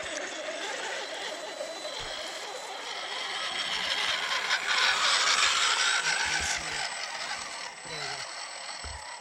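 Electric radio-controlled scale truck crawling over the course: a steady hiss of motor and gears that grows louder about halfway through, with a few low bumps.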